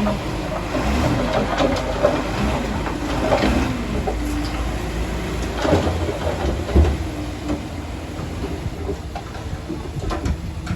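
Komatsu D31A crawler bulldozer at work pushing stone: a steady engine rumble with irregular clanks and knocks throughout, the heaviest about two, six and seven seconds in.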